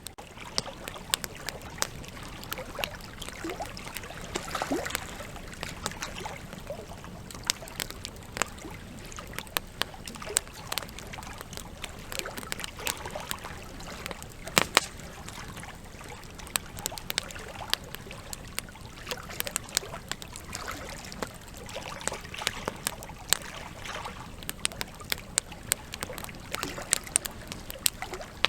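Campfire logs burning with steady crackling: irregular sharp pops and snaps over a soft hiss of flame, one louder pop about halfway through.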